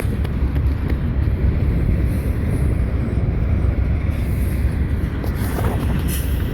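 Long freight train rolling past, a steady low rumble of wheels on rail, with wind buffeting the microphone.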